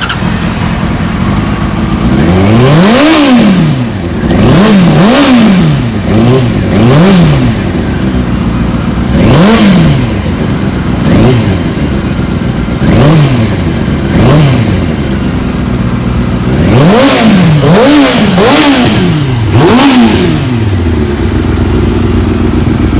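2003 Yamaha YZF-R6's 600cc inline-four running through an aftermarket Micron exhaust: idling, then revved in about a dozen quick throttle blips that each climb and drop straight back, some in close pairs and triplets, before it settles back to idle near the end.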